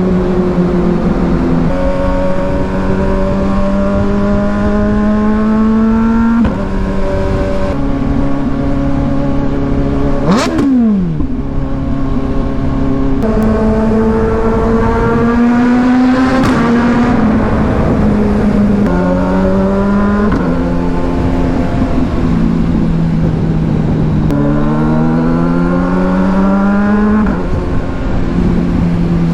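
Inline-four engine of a 2022 Kawasaki Ninja 1000SX with an AR aftermarket exhaust, accelerating through the gears. Its pitch climbs in each gear and drops at each upshift, about seven times. About ten seconds in, a brief sound sweeps sharply down in pitch.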